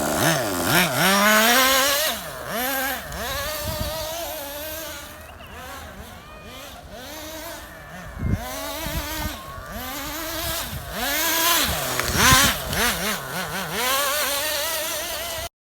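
Car fitted with an aircraft engine driving off, its engine pitch rising and falling over and over as it revs. It grows fainter in the middle, comes back louder near the end, then cuts off suddenly.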